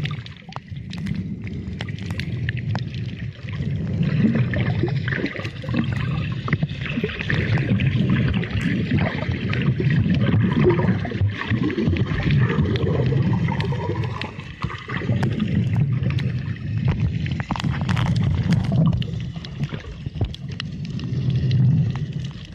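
Muffled underwater sound of the sea, heard through a submerged camera: a low rumble swelling and fading every few seconds, with scattered sharp clicks and crackles throughout.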